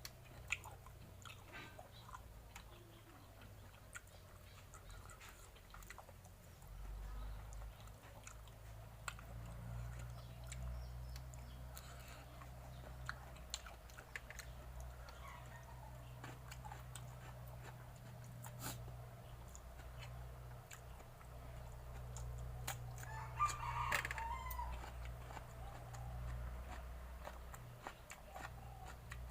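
Chewing and mouth clicks of someone eating, with a steady low hum. About three quarters of the way in, a rooster crows once in the background.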